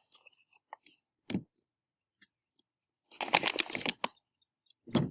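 A measuring cup scooping dry flour, giving a short knock about a second in, then a second of crunchy scraping and another brief scrape near the end.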